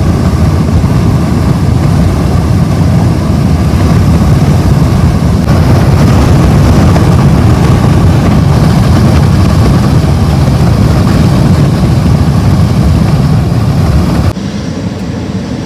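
Loud, steady low rumble of wind and road noise from a car driving at highway speed, dropping off sharply near the end.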